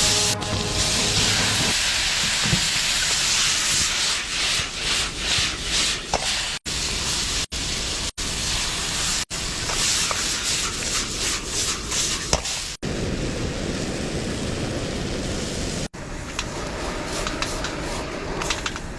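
Tomato and egg stir-fry sizzling in a pan, with scraping from the spatula. The hiss cuts off and restarts abruptly several times.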